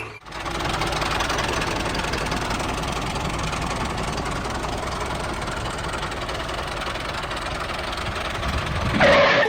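A small engine or motor running steadily, as of the miniature tractor and thresher at work, getting louder briefly near the end.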